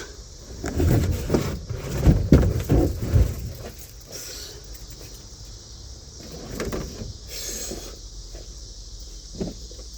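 Car headliner being handled and pulled down inside the car: a cluster of knocks and rustles in the first three seconds, then quieter rustling and a few light knocks.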